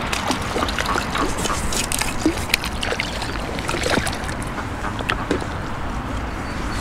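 Steady low rumble of wind buffeting the microphone at the waterside, with many small scattered clicks and taps.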